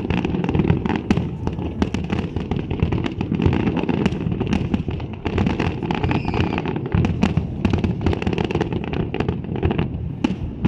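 Fireworks display: a dense, rapid, continuous crackle of bursts and pops over a steady low rumble.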